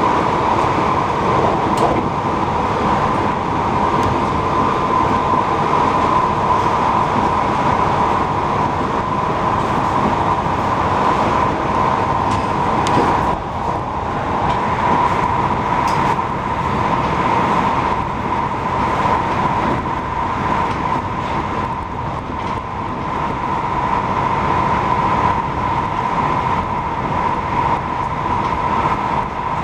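Passenger train running at speed, heard from inside the carriage: a steady rumbling rush of wheels and rails with a steady whine on top, dipping briefly about halfway through.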